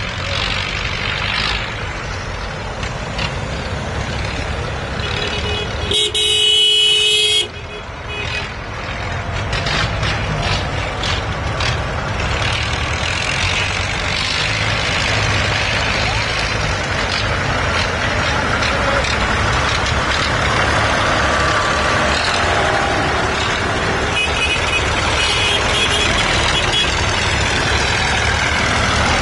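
Tractor engines running steadily, with a horn sounding once for about a second and a half, about six seconds in.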